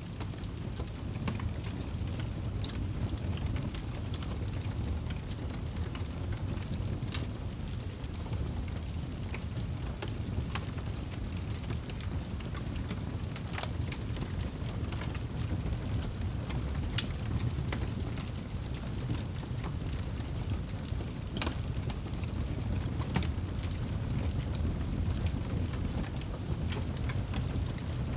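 Wood fire burning in a fireplace: a steady low rumble of flames with irregular sharp crackles and pops, a few of them louder snaps.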